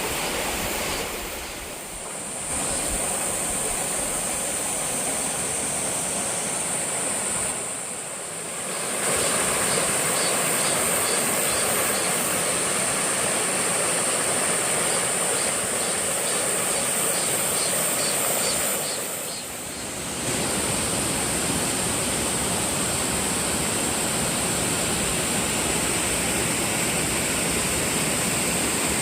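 Waterfall water pouring and rushing steadily, with a strong high hiss over it. The level dips briefly three times.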